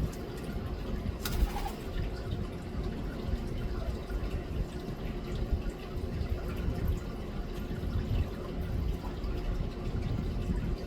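Steady low rumbling noise with a faint hiss above it, and a single sharp click about a second and a half in.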